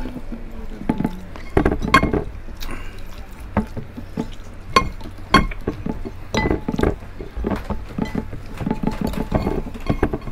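Close-miked eating sounds: chewing and lip smacks from people eating crispy fried pork tenderloin with their hands, with many irregular sharp clicks and an occasional light clink.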